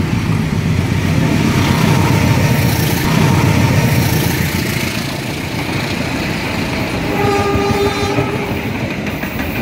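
CC 203 diesel locomotive hauling a passenger train past at close range: loud, steady engine rumble and wheel noise on the rails. About seven seconds in, a brief steady tone sounds for about a second.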